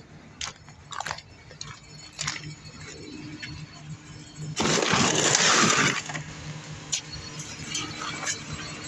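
Mercury Grand Marquis idling with a steady low hum, with a few sharp metallic taps and knocks and a loud rushing noise lasting about a second and a half near the middle. The taps fit the exhaust pipe knocking against the body where its hanger is missing.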